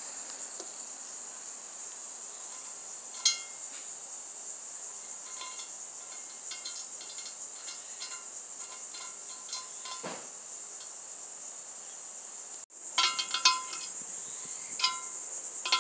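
Crickets chirring steadily in the background, with scattered light metallic clicks and clinks, grouped in a cluster near the middle and again near the end.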